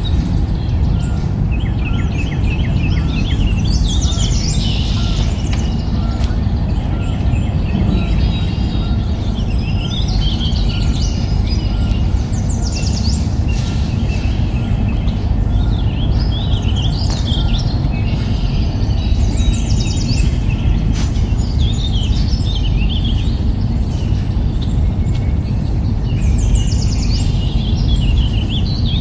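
Small birds chirping in repeated short bursts over a steady low rumble of background noise.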